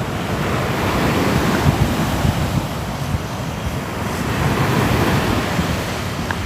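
Sea waves breaking and washing on a shore in a steady wash of surf that swells and eases, one surge peaking about two-thirds of the way through, with wind rumbling on the microphone.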